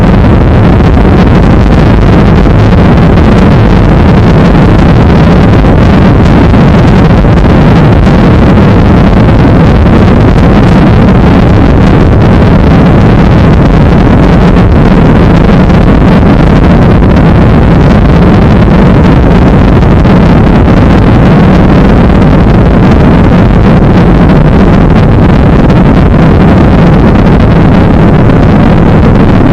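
Ryanair airliner's jet engines running at takeoff power, a loud, steady roar mixed with heavy wind buffeting on the action-camera microphone.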